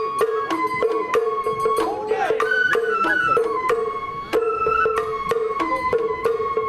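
Sawara hayashi festival music: a bamboo flute playing a melody in held notes over a steady pattern of drum and percussion strikes.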